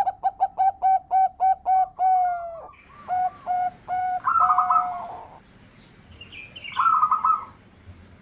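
Zebra dove (perkutut) singing: a quick run of about nine short staccato coos in the first two seconds, a longer drawn note, a few more coos with a warbled burst, and another short warbled burst near the end.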